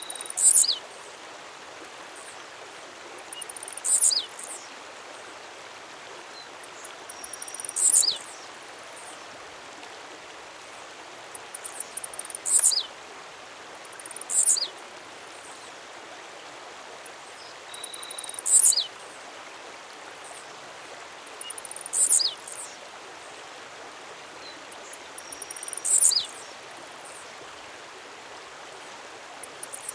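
A songbird repeating a short, high, steeply falling note about every three to four seconds, some notes preceded by faint softer chips. A steady hiss runs underneath.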